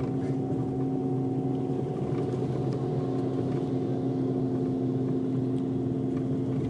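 Scania Irizar PB coach's diesel engine and road noise heard from inside the passenger cabin. The coach runs at a steady speed with an even drone that holds one pitch throughout.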